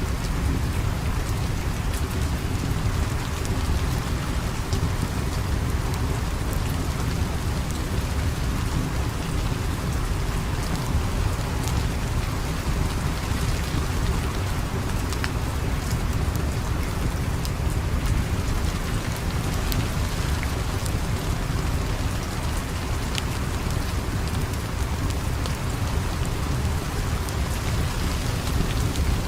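Steady rain falling without a break, over a deep, constant low rumble. Scattered sharp clicks are heard throughout.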